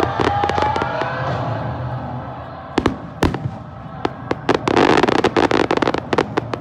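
Aerial fireworks shells bursting with sharp bangs, two of them loud about three seconds in. Near the end comes about a second of dense crackling from crackling stars.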